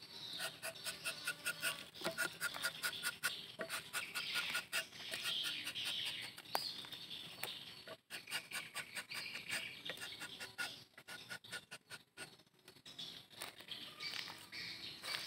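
Birds calling, with many scattered small clicks.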